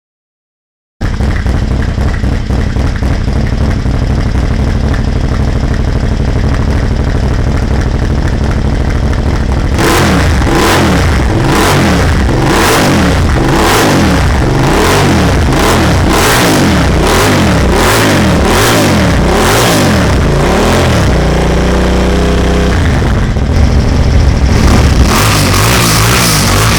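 Aprilia Dorsoduro 1200's 90° V-twin through a GPR aftermarket exhaust. It starts about a second in and idles, then about ten seconds in is blipped repeatedly, roughly once a second. Near the end it holds a steady higher rev briefly before more blips.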